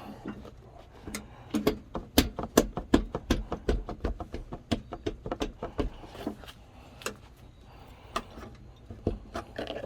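Snowblower's sheet-metal shroud clanking and rattling as it is worked and pried loose from the hooks over its bolts: a quick run of irregular metal knocks about a second in, thinning out toward the end.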